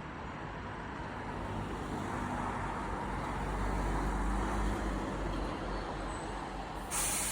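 Road traffic noise: a steady rumble that swells and eases as a vehicle goes by, with a sudden hiss starting near the end.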